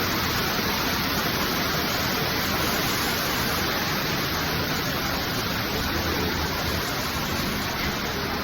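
Waterfall inside a cave: a steady rush of falling water, fading a little toward the end.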